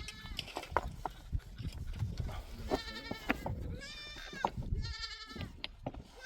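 Goats in a herd bleating, several high calls one after another, the clearest about three, four and five seconds in, with a few sharp clicks among them.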